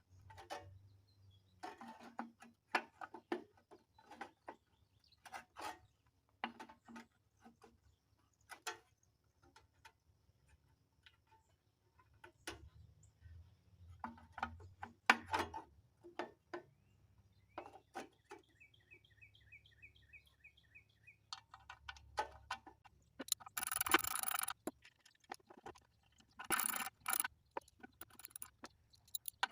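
Scattered clicks and knocks of hand work on a 1972 Briggs & Stratton mower's recoil starter. Its spring is broken, so the pulley has to be wound up by hand. About two-thirds through there is a quick run of high squeaky chirps, and a short rushing burst comes a few seconds later.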